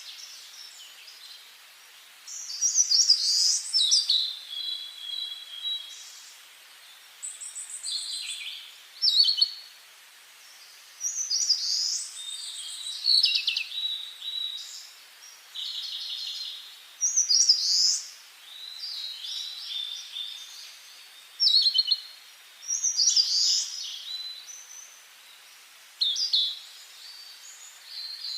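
Songbirds singing: a string of short, varied phrases of whistles, trills and rattling notes, a new phrase every two to three seconds, over a faint steady hiss.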